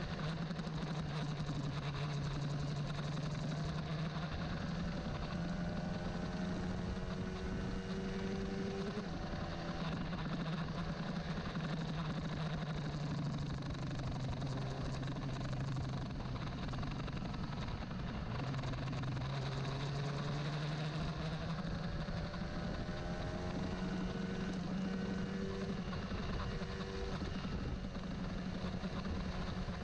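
Old carbureted Honda CBR150R single-cylinder four-stroke engine running, its pitch drifting slowly up and down rather than holding steady. The owner says the freshly tuned engine is not yet running stably.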